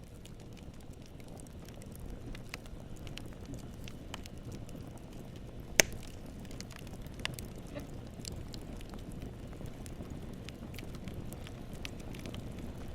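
Wood campfire burning: a steady low rumble with scattered crackles, and one sharp loud pop about six seconds in.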